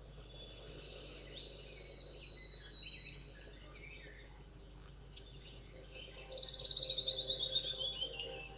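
Tropical forest birds calling: a high steady note about a second in that lasts about two seconds, scattered chirps, then about six seconds in a fast trill whose notes fall in pitch over about two seconds.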